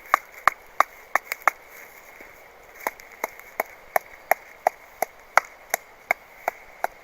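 An improvised mallet pounding sharpened wooden stakes into the ground with repeated wooden knocks, about three a second. There is a short break about a second and a half in, then a second steady run of blows.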